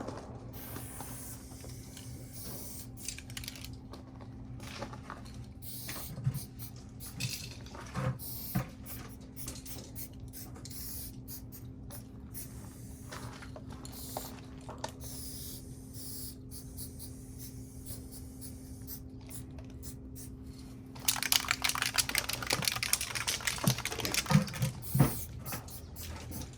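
Spray paint can being handled: scattered clicks and light knocks, then about five seconds of dense, crackling spraying near the end.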